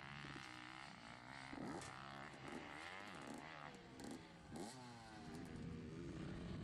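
Motocross bike engine revving, its pitch rising and falling sharply several times, with some clattering.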